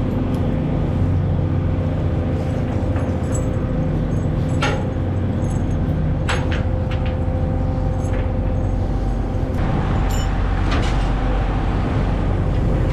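A trawler's engine running steadily, a constant low drone, with a few sharp knocks and clanks from gear on the boat.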